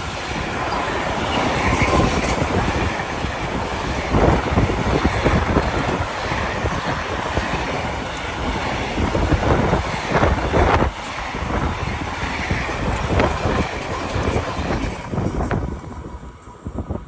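A train passing at speed, its wheels clattering over rail joints, the noise dropping away sharply near the end as it clears.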